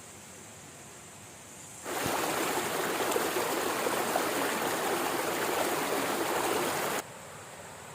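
Rushing stream water, which starts abruptly about two seconds in and cuts off suddenly about a second before the end. Under it and around it is a quieter steady hiss with a faint high steady tone.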